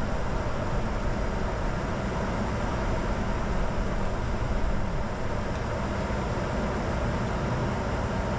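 Steady cockpit noise inside a Bombardier Challenger 605 business jet: an even rush of engine and airflow noise with no change in level.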